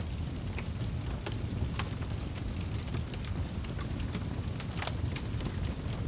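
Wood fire crackling: irregular sharp snaps and pops, several a second, over a steady low rumble of the burning fire.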